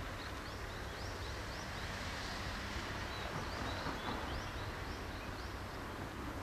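Small birds chirping in a run of short rising notes, over a steady low hum and outdoor background noise.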